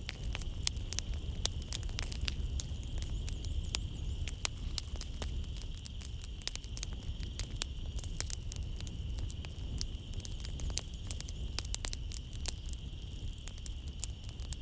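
Wood fire crackling in a fireplace: dense, irregular pops and snaps over a low rumble of the flames. Behind it runs a steady high-pitched drone of night insects.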